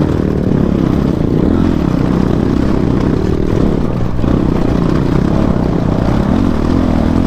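Motorcycle engine running steadily while riding along a rough dirt track, with continuous road and wind noise.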